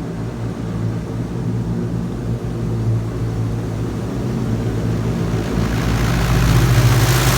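High-pressure water jets of a WashTec SoftCare 2 Pro touchless car wash spraying the car, heard from inside the cabin over the machine's steady low hum. The spray hiss grows louder from about six seconds in.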